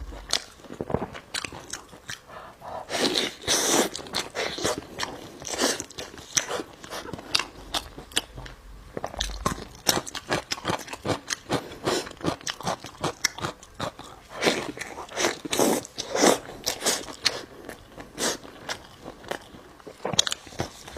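Close-up chewing and biting of food, with many crisp crunches and wet chewing clicks.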